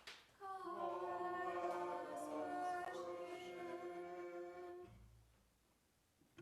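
Unaccompanied group singing of a short liturgical chant response, held from about half a second in until near five seconds, then dying away into a quiet church.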